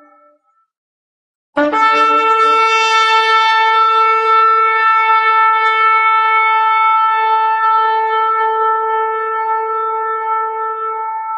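A shofar sounding one long, steady blast on a single held pitch. It starts sharply about one and a half seconds in, after a short silence, and the faint tail of an earlier blast fades out at the very start.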